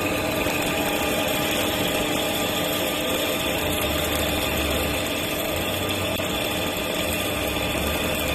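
CNC machine running steadily in a machine shop: an even mechanical noise with a few held tones over it.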